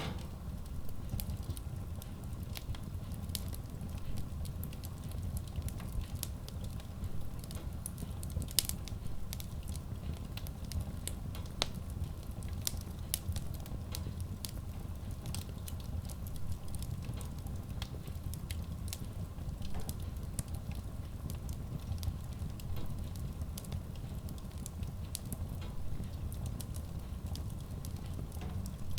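Wood fire burning in a Kratki Koza K6 stove-fireplace: logs crackling and popping at irregular intervals over a low, steady rumble of the flames, with a sharper pop about nine seconds in.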